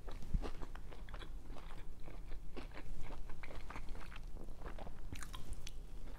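Close-up chewing of a toasted grilled cheese sandwich filled with macaroni and cheese: small crunches and mouth clicks coming irregularly.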